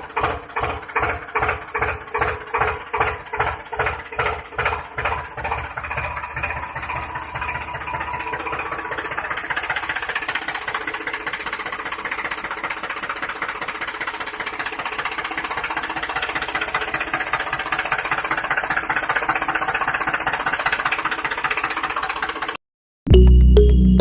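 Motor of a homemade model tractor running with a rhythmic pulsing, about three to four beats a second, that quickens after about six seconds into a steady mechanical buzz. It cuts off suddenly near the end.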